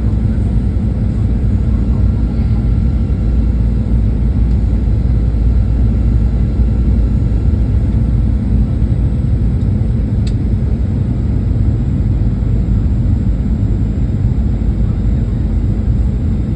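Boeing 737 cabin noise: a steady low rumble of engines and airflow heard from inside the passenger cabin.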